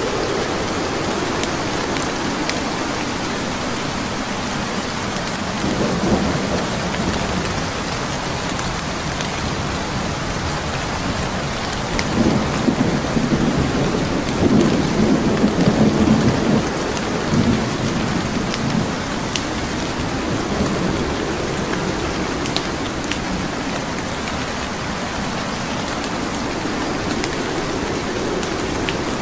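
Steady rain with the sharp pops and crackles of a wood fire scattered through it. A low rumble of thunder swells about halfway through and is the loudest part.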